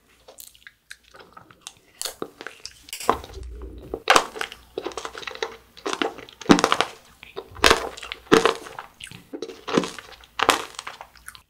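Close-miked chewing of a mouthful of soft white dessert topped with candy sprinkles: irregular crunches and mouth clicks, louder bites coming at uneven intervals.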